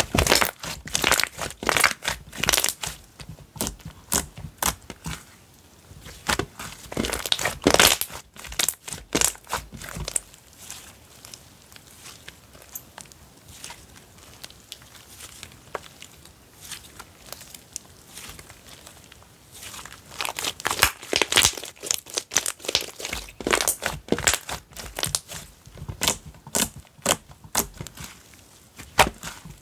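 Slime being squished and stretched by hand, giving bursts of rapid crackling, crinkly clicks with quieter stretches between.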